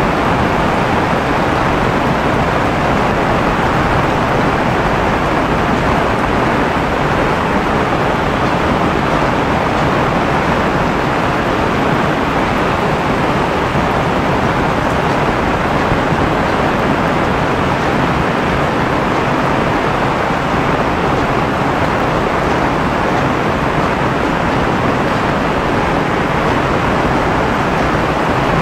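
Heavy rain falling, a loud, steady, even hiss that does not let up.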